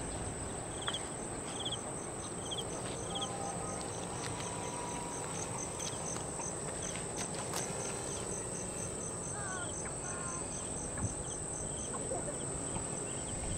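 Insects, crickets or similar, shrilling: a steady high-pitched drone with a regular chirp about three times a second that stops near the end.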